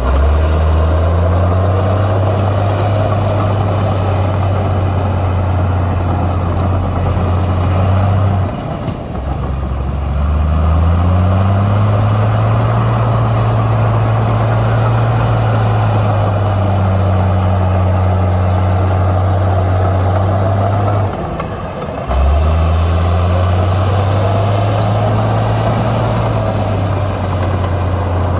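Heavy diesel engine of earthmoving machinery running hard under load. It drops off briefly twice, about nine and twenty-one seconds in, and each time revs back up with a rising pitch before holding steady again.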